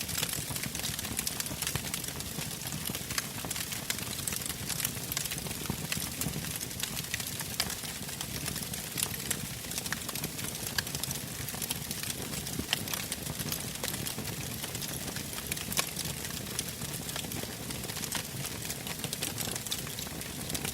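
Wood campfire burning, with frequent irregular crackles and pops over a steady hiss.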